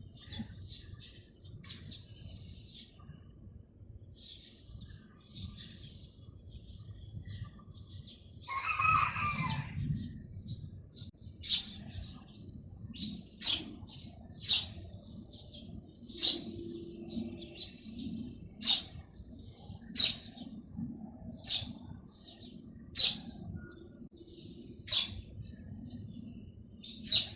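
Birds chirping, with sharp, loud single chirps repeated about every one to two seconds in the second half. A brief louder rush of noise comes about nine seconds in, over a low steady rumble.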